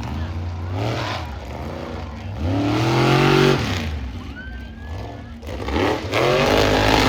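Monster truck engine revving hard in repeated surges, its pitch climbing and dropping three times as the throttle is blipped.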